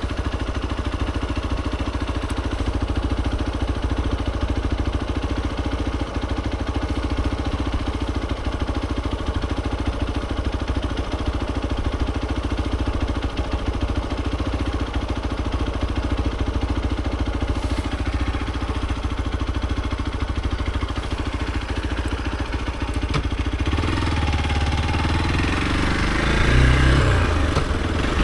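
Hero XPulse 200 4V's single-cylinder engine running steadily, then, near the end, its note rising and falling as it revs, loudest about two seconds before the end.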